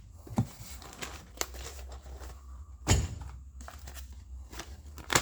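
Packaging being rummaged through by hand, with crinkling rustles and a few sharp knocks of parts, the loudest about three seconds in, over a steady low hum.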